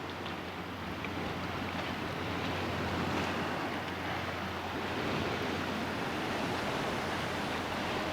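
Sea water and wind: an even rushing hiss of waves with a steady low wind rumble on the microphone, slowly growing louder.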